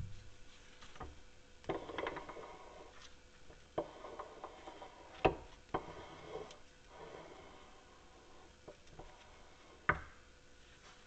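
Dake No. 001 arbor press being worked by hand: its rack-and-pinion ram is raised and lowered with soft rubbing and a series of sharp clicks and knocks, the loudest about halfway through and again near the end.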